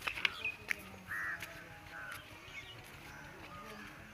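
Birds calling: one short harsh call about a second in, then a few fainter short chirps. A few sharp clicks come in the first second.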